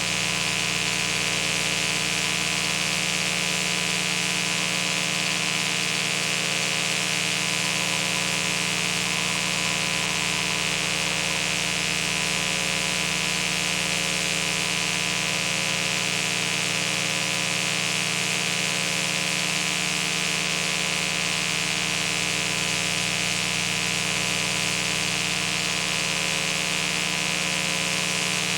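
Steady, unchanging hiss with a constant hum beneath it; nothing starts, stops or changes.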